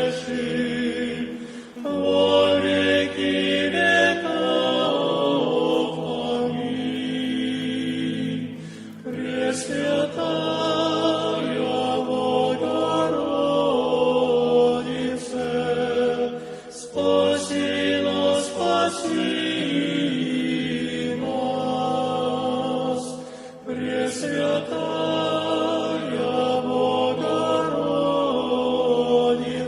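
Choir singing a slow liturgical chant in long held phrases with short breaks between them, in the manner of Orthodox church singing.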